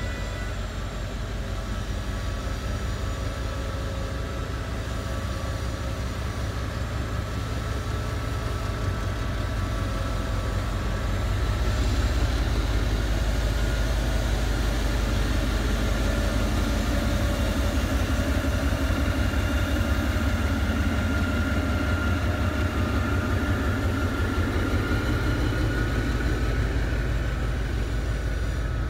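Diesel-hauled passenger train rolling slowly past the platform: a steady low rumble with a thin steady whine above it, growing louder about twelve seconds in.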